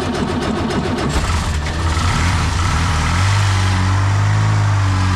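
Prewar car engine freshly started, running with rapid, uneven firing beats for the first couple of seconds, then settling into a steady, slightly louder run.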